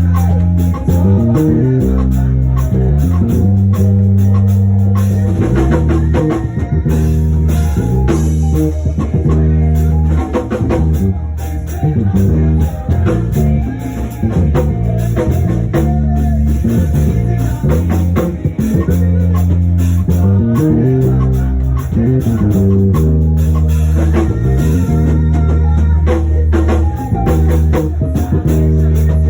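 Live band playing praise music with bass guitar, electric guitar and drum kit: a steady beat under sustained bass notes that change every second or two.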